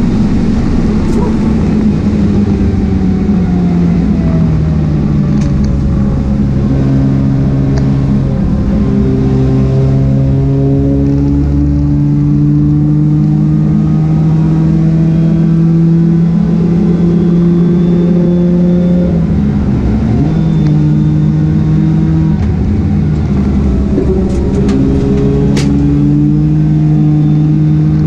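Mazda RX-8's twin-rotor rotary engine running hard under racing load, its note climbing steadily through the revs for long stretches and stepping at a few points. About two-thirds of the way in the pitch dips sharply and then climbs again, and a couple of sharp clicks come near the end.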